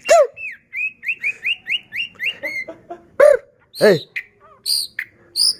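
White-rumped shama singing: a quick run of about eight short rising chirps, then scattered high whistled notes toward the end.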